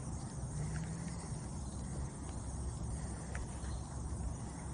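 Steady riverside ambience: a low rush of fast-flowing water with faint insect chirring over it.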